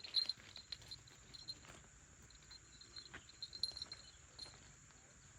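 Faint high-pitched chirping in short, irregular clusters, with a few soft clicks in between.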